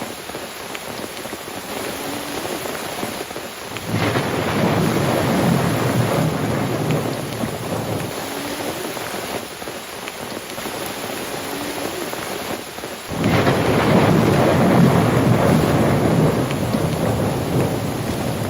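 Thunderstorm: rain falling steadily, with two long rolls of thunder that start suddenly, one about four seconds in and one about two-thirds of the way through, each lasting four to five seconds.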